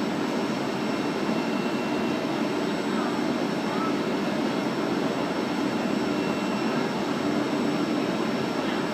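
Frecciabianca train standing at the platform with its equipment running: a steady rushing noise with a faint high whine above it.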